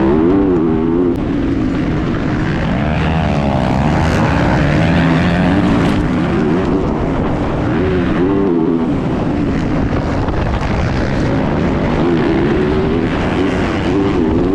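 Motocross bike engine heard onboard, its revs repeatedly rising and falling with the throttle and gear changes.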